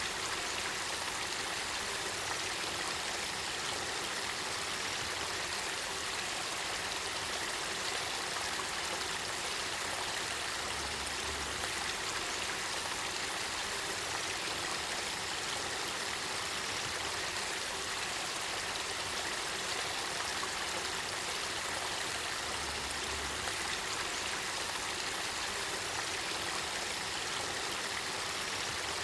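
Spring-fed river water flowing and babbling in a steady, even rush.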